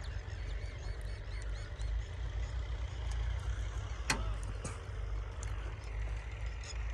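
Tractor diesel engine running steadily with a low rumble, a sharp click about four seconds in and faint bird chirps above it.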